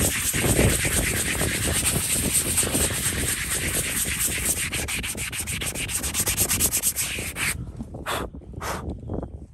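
A horse's hoof being worked with an abrasive tool, a continuous rasping and sanding scrape that cuts off abruptly about seven and a half seconds in, followed by two short scrapes.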